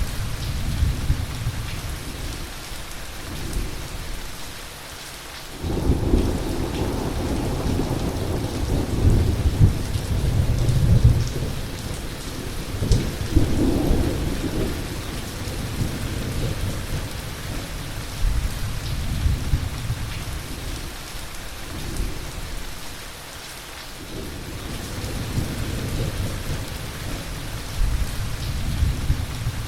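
Heavy thunderstorm: steady rain on surfaces with thunder rumbling. A loud thunderclap breaks in suddenly about five seconds in and rolls for around ten seconds, with lighter rumbles later on.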